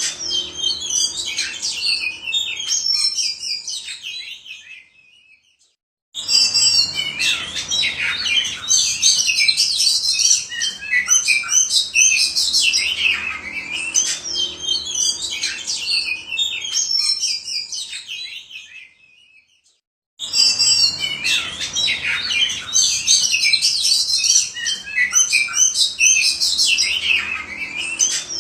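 Oriental magpie-robin (kacer) in full song: a long, loud, varied run of whistles and chirps, fading out twice and starting again abruptly.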